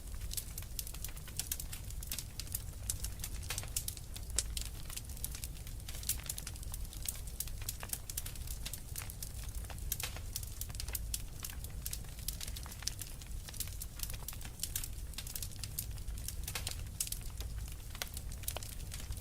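Fire crackling in a fireplace: many small irregular pops and snaps over a steady low rumble.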